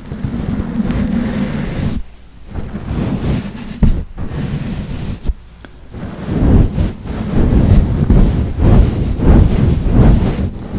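A large fluffy powder brush swept over the microphone, giving a loud, low rushing swish, in repeated strokes that come quicker in the second half.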